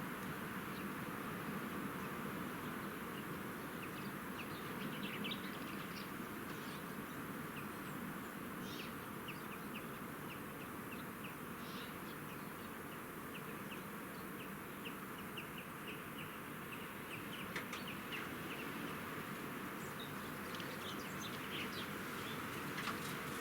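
Small birds chirping in short, quick notes, in runs of rapid twitters, over a steady background hiss of outdoor ambience.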